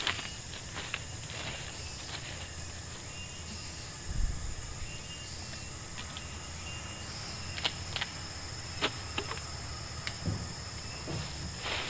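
Steady high-pitched insect chorus drone in forest, with a few scattered sharp clicks and a low thump about four seconds in.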